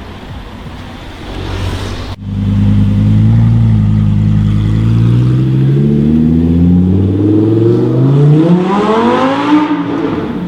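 A supercar engine running loud and low, then accelerating hard with its pitch climbing for several seconds before dropping back near the end. The engine note starts abruptly about two seconds in, after a quieter stretch.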